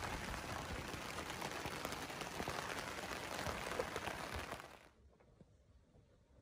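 Rain pattering on the fabric of a roof-top tent, a steady dense hiss of fine ticks that cuts off abruptly about three-quarters of the way through, leaving only faint room tone.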